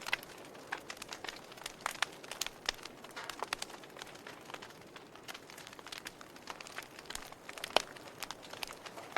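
Wood fire crackling in a fireplace: irregular sharp pops and snaps over a soft hiss of burning, with one louder pop near the end.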